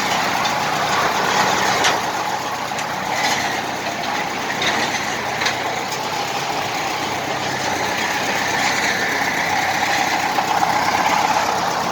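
Engine of a newly built digging machine running steadily on a test run, with a few short knocks or clicks over it.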